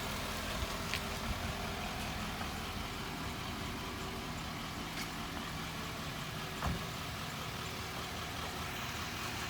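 A motor vehicle engine idling steadily, with one short low thump about two-thirds of the way through.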